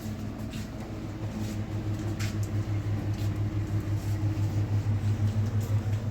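A motor running with a low, steady hum that pulses slightly, growing a little louder near the end.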